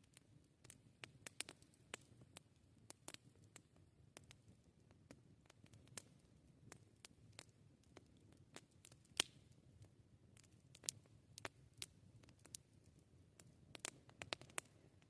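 Wood fire crackling: irregular sharp pops and snaps over a faint low background, with one louder pop about nine seconds in.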